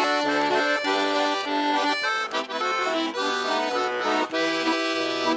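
Russian garmon (button accordion) playing a folk tune in held chords and melody notes, an instrumental break between sung lines of the song.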